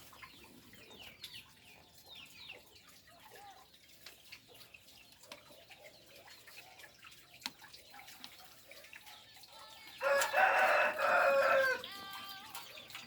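Rooster crowing once, loud, for under two seconds about ten seconds in; faint short chirps of small birds come before it.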